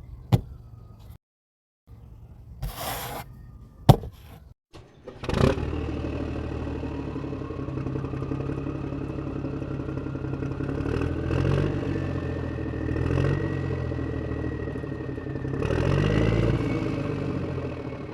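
A few sharp clicks, then about five seconds in a small motor on a homemade machine starts and keeps running. Its whine rises steadily as it spins up, then holds, and the sound swells briefly three times.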